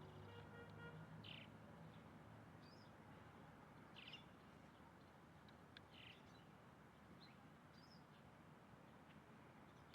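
Faint bird calls: short, high chirps every second or so, over a low steady background rumble.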